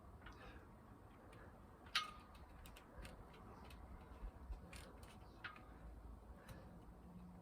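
Faint, irregular clicks and taps over low room noise, with a sharper click about two seconds in that rings briefly.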